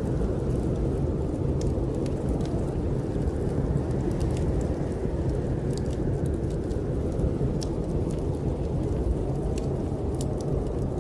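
Snowstorm wind blowing as a steady low rumbling noise, with sparse sharp crackles and pops from a wood fire in a fireplace scattered over it.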